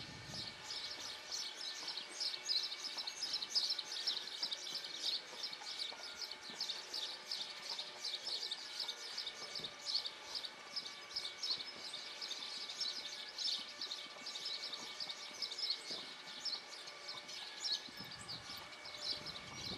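Birds chirping and singing, many short high calls overlapping in a steady stream.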